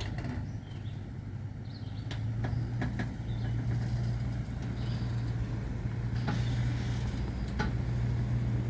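Tow vehicle's engine running under load as it pulls a large trailer forward, a steady low hum that grows louder about two seconds in. A few sharp knocks sound over it.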